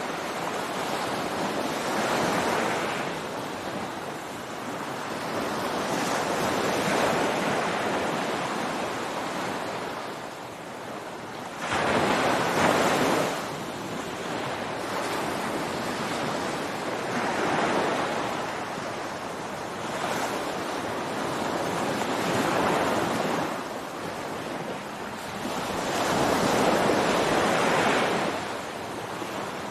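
Ocean surf breaking on a beach: waves rush in and wash back in swells every few seconds, one surge about twelve seconds in louder and sharper than the rest.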